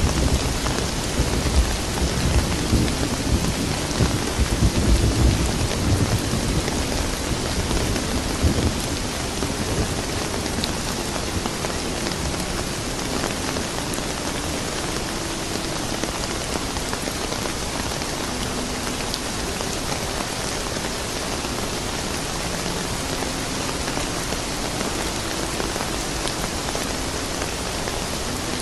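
Steady rain falling, with a low rolling rumble of thunder through the first several seconds that fades out by about a third of the way in.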